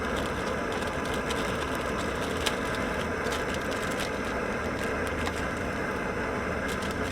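Portable gas camp stove burner running with a steady rushing hiss while water is heated for coffee.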